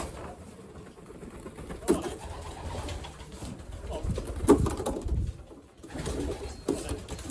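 Racing pigeons cooing at the loft, with a couple of sharp knocks about two seconds and four and a half seconds in, the second the loudest.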